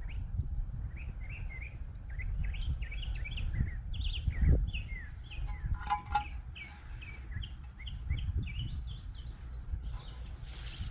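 Songbirds chirping and singing in quick, repeated short notes over a low rumble. A short clink about six seconds in.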